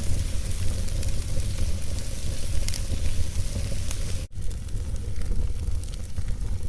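Wood fire crackling in a fireplace: scattered sharp pops and crackles over a steady low rumble and hiss. The sound drops out for a split second about four seconds in.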